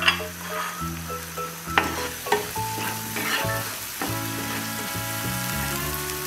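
Spice paste with onion, ginger and garlic frying down in oil in a nonstick kadai, sizzling while a wooden spoon stirs it and knocks against the pan a few times in the first half. Background music plays throughout.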